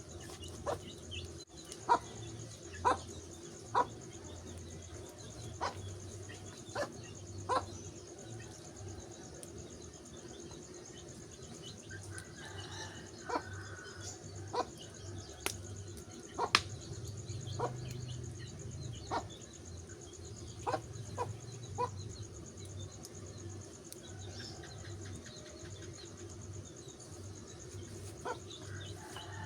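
Wood fire crackling, with sharp irregular pops every second or so, over a steady high insect chirring.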